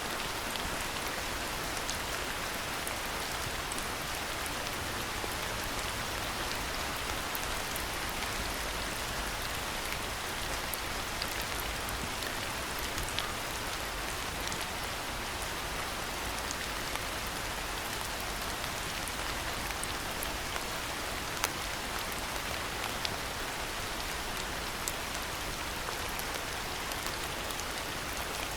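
Steady rain falling, an even hiss with scattered sharper drops tapping, one louder drip about three quarters of the way through.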